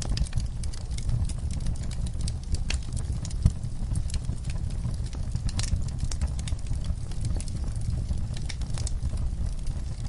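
Wood fire burning in a fireplace: a steady low rumble of flames with frequent small crackles and pops, and one sharper pop about three and a half seconds in.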